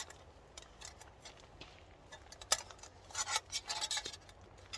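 Light clicks and clatters of a small folding camp table's legs and frame being handled and clipped together, in a few short bunches.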